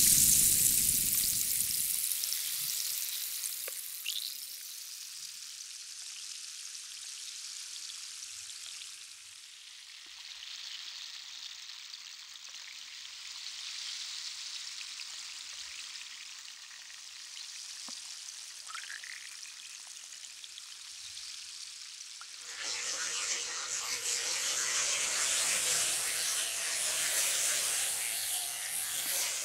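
Fat sizzling in a pan, a steady crackling hiss that is quieter through the middle and grows louder and fuller about three-quarters of the way in. A deep low rumble dies away in the first two seconds.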